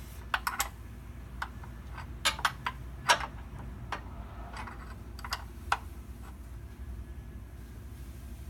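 Irregular sharp clicks and light knocks, about a dozen in the first six seconds, the loudest about three seconds in, from hand tools and parts being handled during an oil change.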